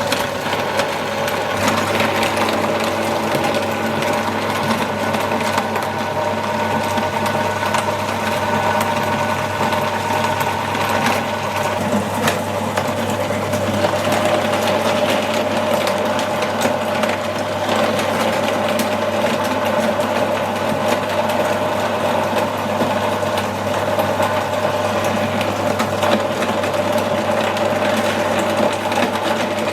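Meat grinder motor running steadily with a constant whine; its tone drops slightly about halfway through.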